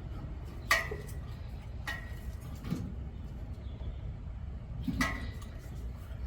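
A socket and hand tools on a stuck spark plug in a small-block V8, clinking sharply against metal four times, the first about a second in and the loudest. A steady low hum runs underneath.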